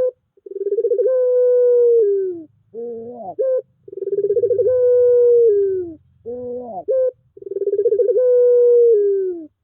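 Puter pelung (domestic Barbary dove) cooing: a long drawn-out coo with a rolling start that falls away at the end, followed by a short rising-and-falling note, the whole call repeated about every three and a half seconds, three times.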